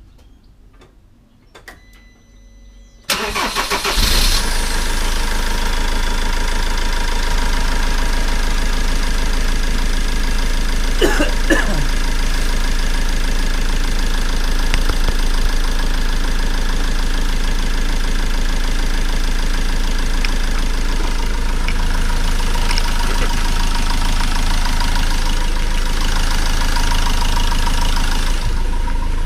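Peugeot van's turbocharged engine starting about three seconds in, on its first run with the replacement turbo fitted, then idling steadily. A couple of brief clinks come about eleven seconds in.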